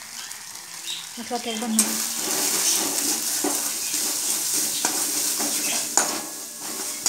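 Onion and spice paste frying in oil in a metal kadai, sizzling, louder from about two seconds in. A metal spatula stirs and scrapes through it, with a few sharp knocks against the pan.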